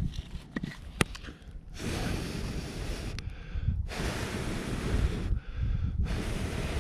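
Heavy breathing close to the microphone: three long, hissing breaths about a second apart, over a low rumble.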